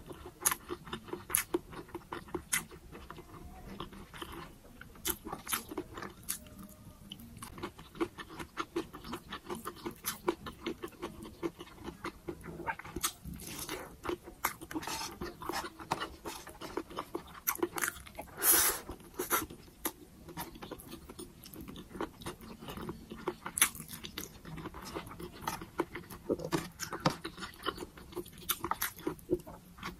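Close-up eating sounds of a person chewing sticky, glazed braised pork belly and rice, many short wet mouth clicks in an irregular run, with a louder cluster about two-thirds of the way through.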